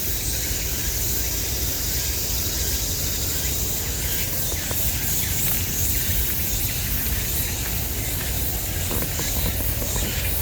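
A steady, high-pitched chorus of insects, over a continuous low rumble.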